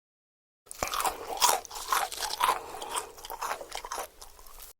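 Close-miked crunching and chewing of crisp food, starting about a second in with roughly two crunchy bites a second, then cutting off suddenly near the end.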